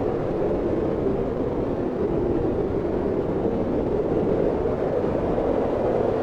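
Wind blowing steadily: a continuous rushing noise without gusts or breaks.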